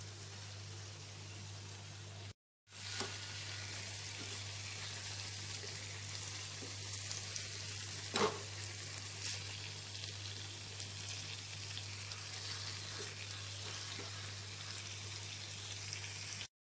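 Chicken pieces frying in onion-tomato masala in a kadai, a steady sizzle, with a spatula stirring and one sharp knock against the pan about eight seconds in. The sizzle cuts out briefly twice.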